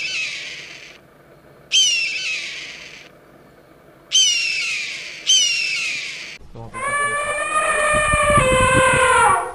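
An eagle giving high, descending screaming calls: one fading at the start and three more spaced a second or two apart. About six and a half seconds in, an elephant trumpets: a long, blaring, pitched call lasting about three seconds, with a short break and a slight drop in pitch near the end.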